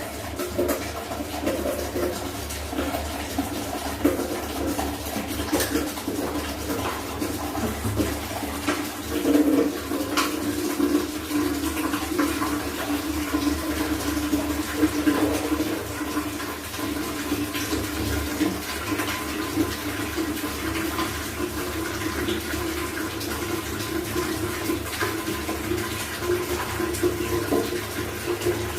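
Water running and splashing steadily as clothes are washed by hand, with scattered knocks.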